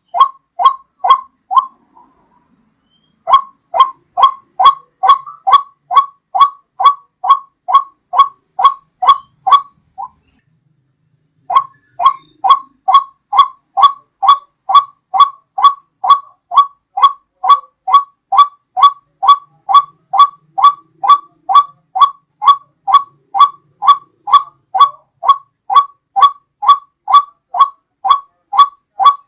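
White-breasted waterhen (ruak-ruak) lure call: a fast, even series of short rising notes, about three a second, with two short breaks, one about two seconds in and another around ten seconds in.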